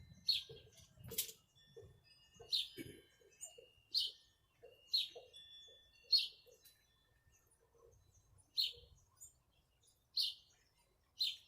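A bird chirping repeatedly: about nine short, high single chirps spaced a second or two apart.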